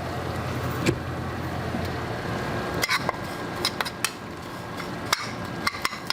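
Spoon clicking and scraping against a small pan while panko crumbs are stirred in melted butter, with a steady low hum underneath; the clicks come scattered, several close together near the end.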